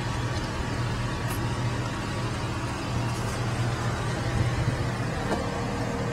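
Car engine running steadily: a constant low hum under a steady rushing noise.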